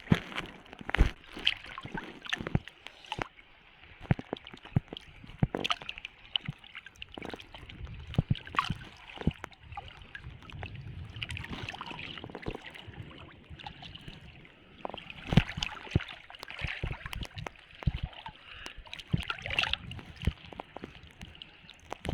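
Irregular splashing and sloshing of legs wading through shallow seawater over deep mud while a seine net is hauled in.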